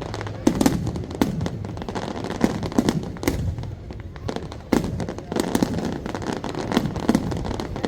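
Fireworks display: an irregular run of sharp bangs from bursting shells, about two a second, over a steady background rumble.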